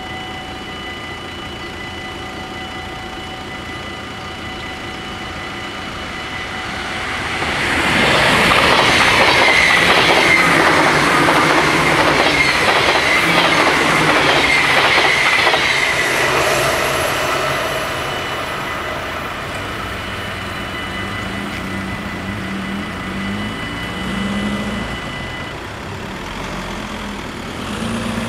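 Dutch level-crossing bells ringing steadily while an NS ICMm (Koploper) electric intercity train passes at speed, its wheels clattering over the rail joints for about eight seconds from roughly 8 s in. The bells stop about 25 s in as the crossing clears.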